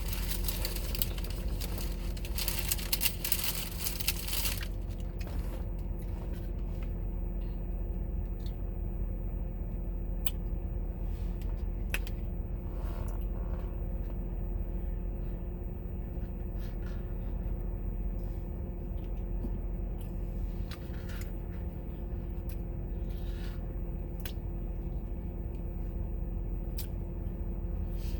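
Paper or plastic food packaging crinkling for the first four or five seconds. After that, a steady low hum runs on with scattered small clicks and taps.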